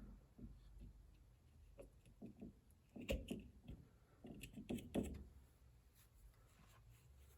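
A few faint clicks and light knocks, clustered around three and five seconds in.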